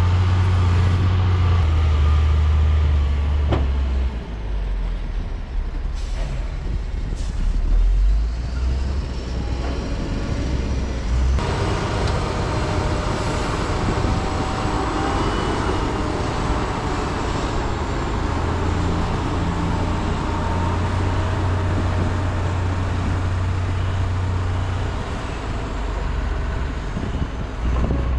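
Heavy diesel construction machinery running: the low, steady engine drone of an excavator and dump trucks working rock, its pitch stepping up and down several times as the engines change load.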